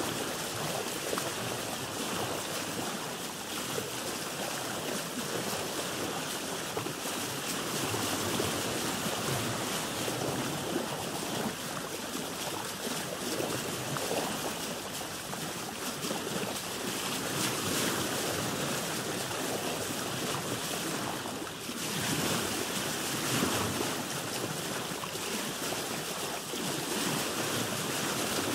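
Sea waves washing and splashing against a boat, a continuous rushing wash with a brief lull about three-quarters of the way through.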